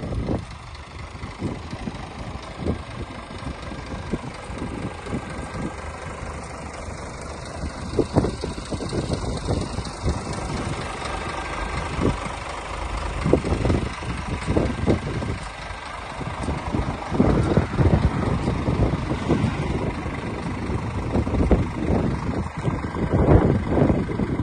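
Scania R450's 13-litre straight-six diesel engine idling steadily, with irregular low thumps over it.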